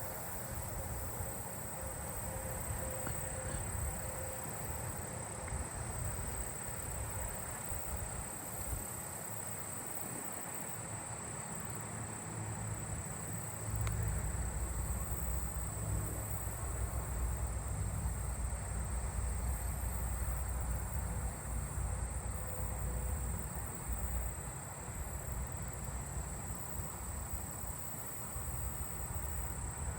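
Daytime chorus of singing insects, crickets and katydids, with a steady high-pitched trill and a higher, wavering buzz above it; agile meadow katydids and southern ground crickets are among them. A low rumble comes in about halfway through.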